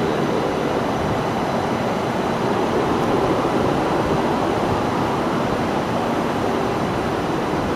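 CRH2C high-speed electric multiple unit running past along the platform as it pulls into the station, a steady rush of rolling noise.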